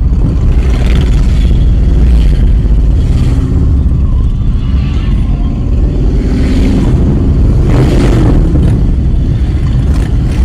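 Motorcycle engines running with a deep, steady low rumble, with a brief louder burst about eight seconds in.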